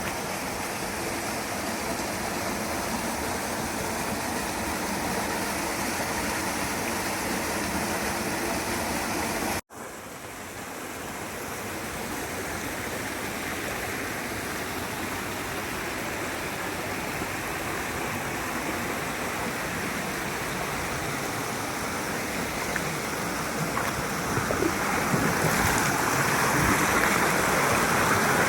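Mountain stream water rushing steadily over rocks, with a brief break about ten seconds in. It grows louder near the end.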